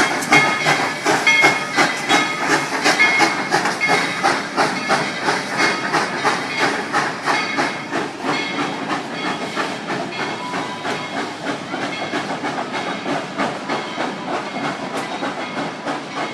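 Narrow-gauge steam locomotive running, its exhaust chuffing in a quick steady rhythm with hissing steam. The sound gradually fades as the train moves away.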